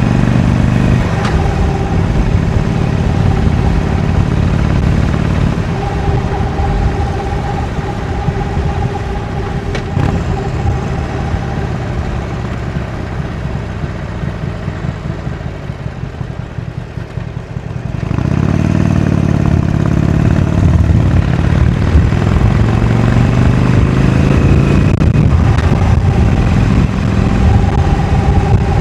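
Harley-Davidson Iron 883's air-cooled V-twin on its stock exhaust, heard while riding. The engine runs steadily, then eases off and grows gradually quieter for several seconds as the bike coasts. About two-thirds through, the throttle opens sharply and the revs climb, dip briefly and climb again near the end.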